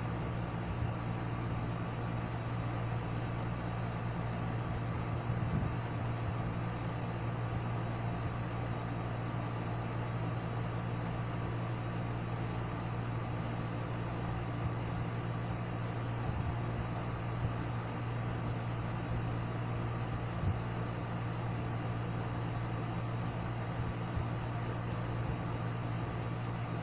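A steady, unchanging mechanical hum with a low drone, broken only by a few faint clicks.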